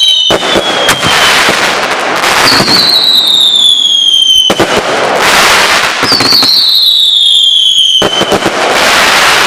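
Consumer fireworks going off: a steady crackling hiss, with a shrill whistle every few seconds that slides slowly down in pitch.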